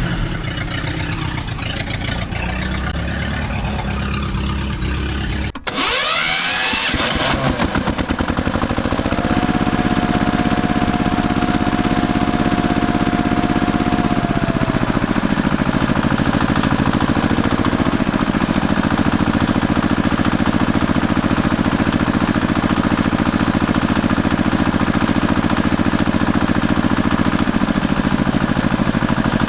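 Vehicle engine sound: a running engine cuts off sharply about five seconds in, is started again with a falling whine, then keeps running steadily, with a held whine over it for a few seconds.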